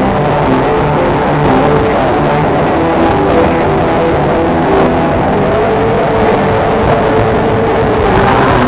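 Live band music played loud through a PA, with held chords over a dense, muddy wash of sound.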